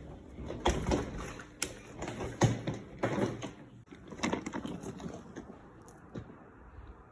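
Irregular light knocks and clicks with rustling between them, fading towards the end.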